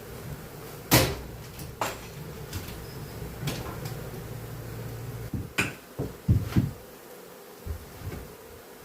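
Sharp knocks and clatters of handling gear during a honeybee hive removal, the loudest about a second in and a quick run of dull thumps past halfway, over a low hum of honeybees that stops a little past halfway.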